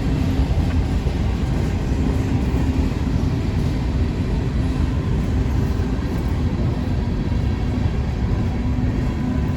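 Mixed freight train rolling past at close range: a steady, loud rumble.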